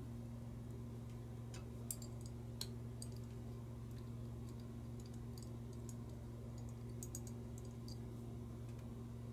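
Faint scattered clicks and ticks of small lighter parts being handled and fitted by hand, with two slightly sharper clicks about two seconds in, over a steady low electrical hum.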